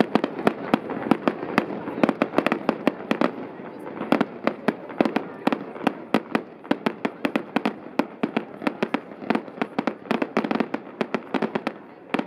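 Fireworks display: a dense, irregular string of sharp bangs from bursting shells, several a second, with no let-up.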